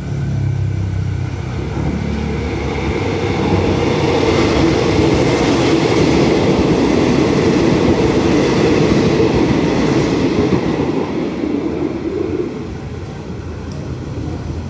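Diesel passenger train passing through a station without stopping. A low engine drone as it approaches gives way to rolling wheel and carriage noise that builds to its loudest around the middle, then fades after about twelve seconds as the train moves away.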